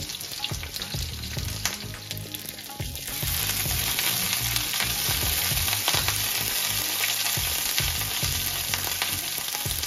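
Chopped onion, green chillies and curry leaves sizzling in hot coconut oil in a nonstick frying pan while a wooden spatula stirs them, with light taps and scrapes of the spatula on the pan. The sizzle grows louder about three seconds in.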